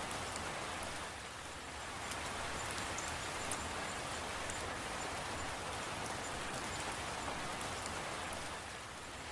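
Steady rain falling, with scattered sharp drips of individual raindrops over an even hiss; the rain briefly eases about a second in and again near the end.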